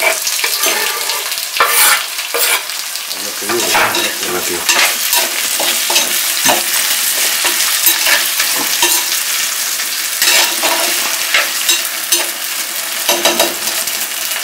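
Chopped tomatoes, onions and spices frying in oil in a clay cooking pot (mann satti): a steady sizzling hiss, with frequent scrapes and knocks as a perforated steel skimmer stirs against the pot.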